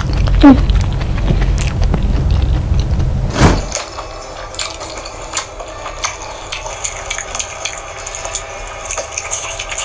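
Close-miked chewing and mouth sounds of someone eating rice by hand, over a strong low hum, with a few sharp clicks. A little over three and a half seconds in it cuts to a quieter stretch of light scattered clicks and ticks.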